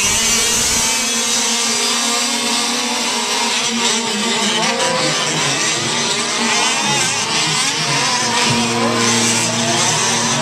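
A pack of fifth-scale RC trucks' small two-stroke engines revving together, many pitches wavering up and down at once as the race gets under way.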